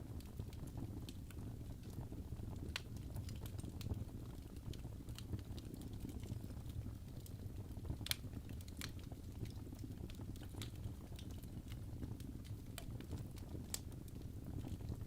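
Wood fire burning in a fireplace: irregular crackles and pops over a steady low rumble of flame, with one sharper pop about halfway through.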